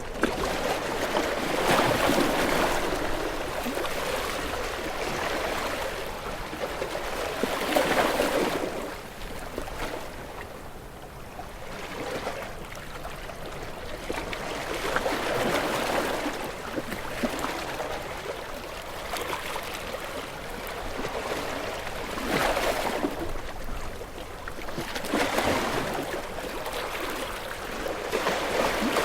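Ocean waves breaking and washing in, the surf noise swelling and falling away every few seconds.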